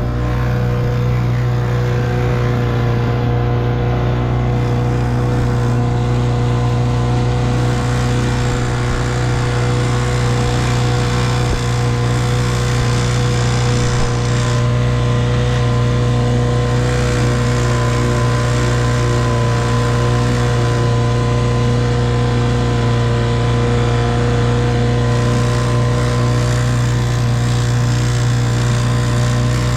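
1958 Evinrude 3 hp two-stroke outboard motor running at a steady, unchanging speed.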